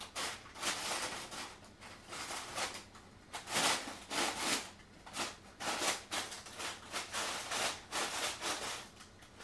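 Paper rustling and crinkling in irregular bursts as a cat scrabbles about in paper and cardboard boxes.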